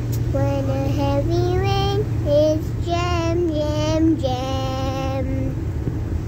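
A child singing a sequence of held and gliding notes, stopping about five and a half seconds in, over a steady low hum.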